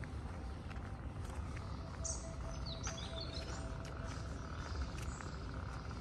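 Outdoor ambience with a steady low rumble, and a small bird chirping a quick run of high, partly falling notes about two seconds in.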